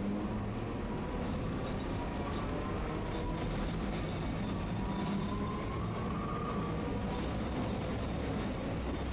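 Tosaden streetcar running, heard from inside the car: a steady low rumble of wheels on rail, with a faint motor whine that rises a little in pitch midway.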